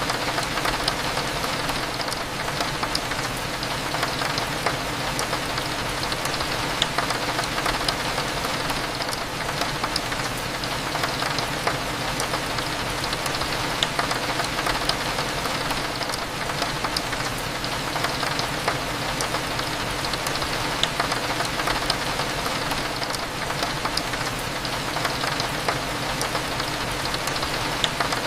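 Steady rain on a window pane, with many small drop ticks scattered through it, over a low steady hum.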